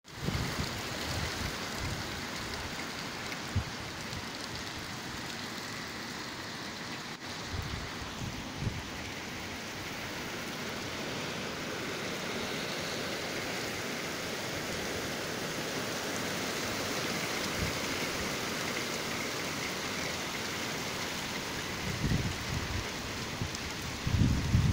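Heavy rain pouring down, a steady dense hiss, with a few short low bumps now and then, the strongest near the end.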